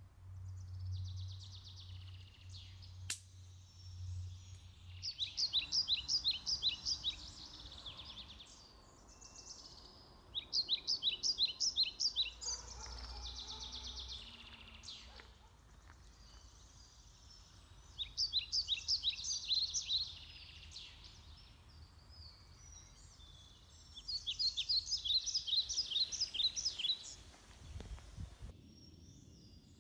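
A songbird singing, a fast run of high repeated notes about two seconds long, coming back every five to seven seconds, with fainter bird calls between the phrases. A low hum sits under the first few seconds.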